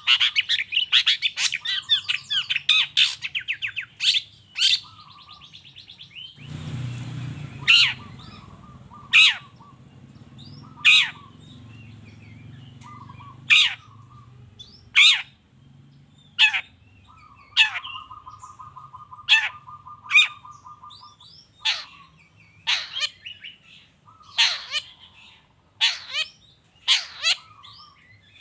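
Long-tailed shrike calling: a fast run of chattering notes at first, then a series of sharp, harsh calls falling in pitch, about one every second and a half, with a buzzy trill held for a few seconds a little past the middle. A short burst of noise comes about six seconds in.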